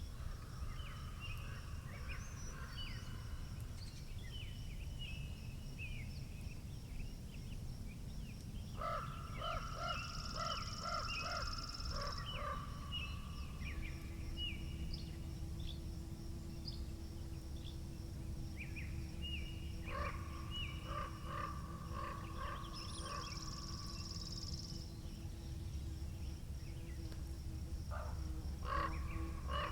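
Several birds singing and chirping over a steady low rumble of wind. A faint steady low hum joins about halfway through.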